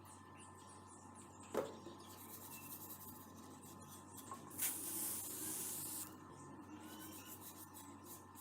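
Quiet rubbing and scraping at work on a rusty adze being restored, with a single sharp knock about one and a half seconds in. A hiss of about a second and a half comes just after midway.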